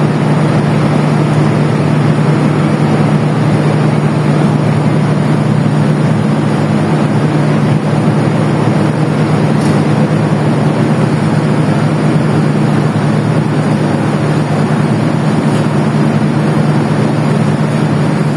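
Diesel engine of a train running steadily, a loud even drone with a strong low hum.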